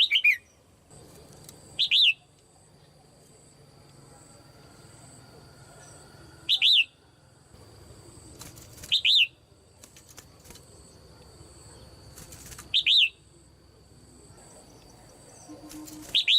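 Female red-whiskered bulbul giving short, sharp calls, one every two to four seconds.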